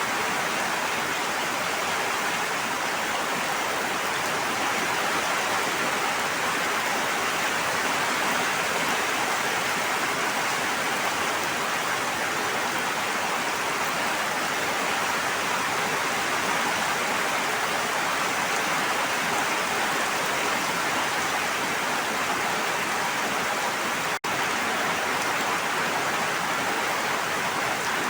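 Steady, even rushing of water, rain or flowing water, with no distinct drops or splashes standing out. Near the end it cuts out for a split second and comes straight back.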